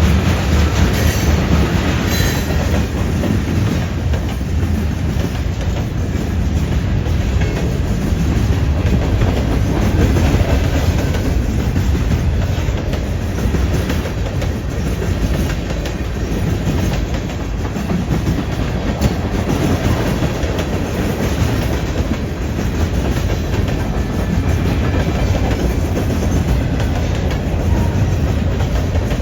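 CN freight train rolling past at speed: a steady low rumble of cars on the rails, with the wheels clicking over rail joints.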